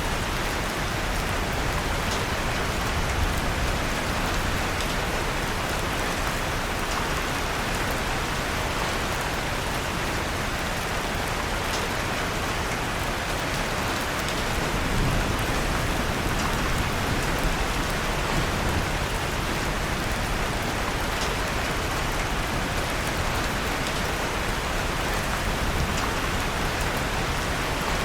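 Steady rain falling on a surface, an even hiss with faint scattered ticks of drops.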